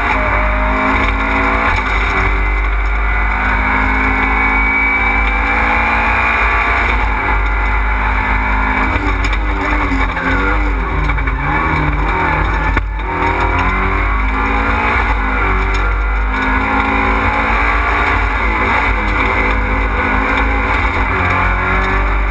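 Fiat Panda rally car's engine heard from inside the cabin, revving up and down hard through the gears at stage speed, over road and tyre noise. A single sharp knock cuts through about thirteen seconds in.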